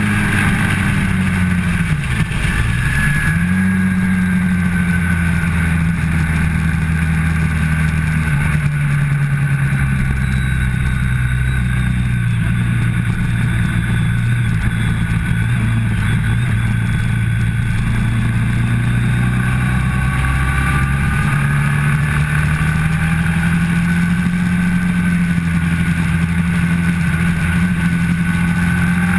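Motorcycle engine running at track speed, heard from an onboard camera with wind rushing over the microphone. The engine note dips sharply and picks up again about two to three seconds in, sags slowly through the middle as the bike leans through a long corner, and climbs steadily again in the second half as it accelerates.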